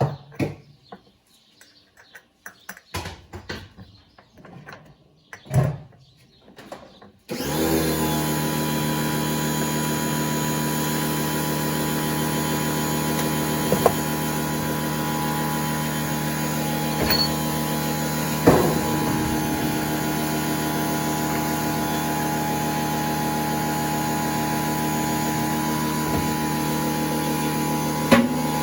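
A few knocks and clicks of parts being handled, then an electric motor-driven machine switches on abruptly about seven seconds in and runs steadily with a hum and hiss, with an occasional knock over it.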